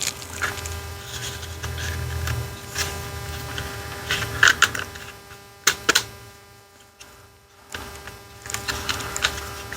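Scattered light clicks and knocks of plastic parts being handled as the faceplate is fitted back onto a car instrument cluster, over a steady electrical hum.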